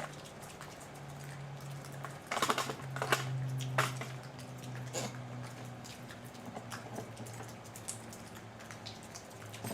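Clicks, taps and short scrapes of a chainsaw being worked on by hand, its parts and tools being handled, with a busier run of knocks and scraping a few seconds in. A steady low hum runs underneath.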